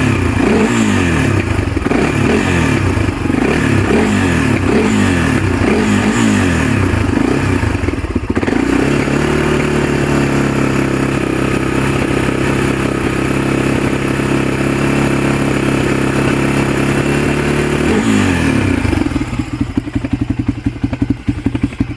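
1997 Honda TRX300EX's single-cylinder four-stroke engine, still cold-blooded after a cold start, being warmed up: repeated quick throttle blips for about eight seconds, then held steady at a raised speed, then settling about three-quarters of the way in to a lower, uneven idle.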